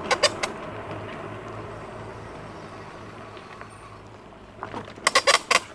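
Jansno X50 electric bike riding along, with steady wind and road noise on the unshielded microphone and a low motor hum. Sharp knocks or rattles come three times just after the start and in a quick cluster of about five near the end. The owner calls the bike a noisy little booger and blames its worn rear shock.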